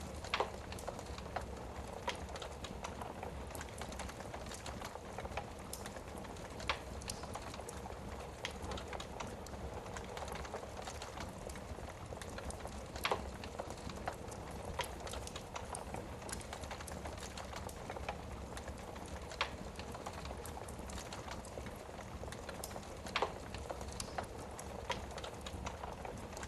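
Wood fire burning in a fireplace: a steady soft hiss of flames with irregular crackles and pops from the burning logs, a few pops louder than the rest.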